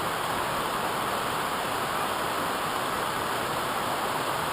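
Waterfall rushing steadily, an even roar of water with no break or change.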